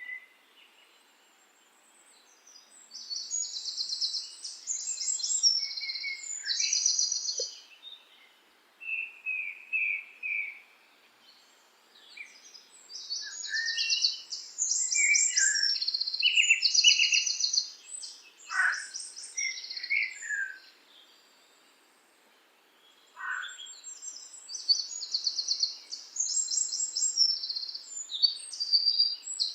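Songbirds singing: bursts of high, rapid trilled phrases that come back about every ten seconds, with lower chirps and a few short downward-sliding notes between them.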